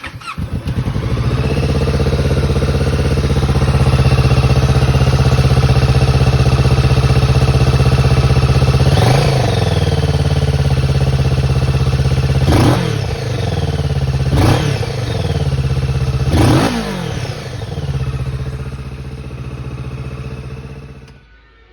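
2022 Kawasaki Ninja 650's parallel-twin engine through a Black Widow 300 mm exhaust with the baffle in. It idles steadily, is revved in four short blips that rise and fall back, then settles to a quieter idle and cuts off near the end.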